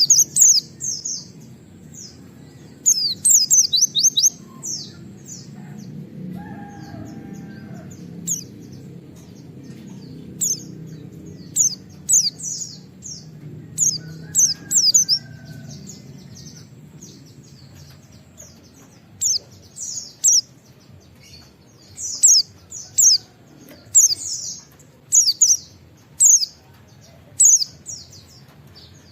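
White-eye (pleci) singing its rapid 'wit wit' song, high and loud, in short bursts of quick falling notes repeated every second or two. Under the first half runs a low, faint background rumble.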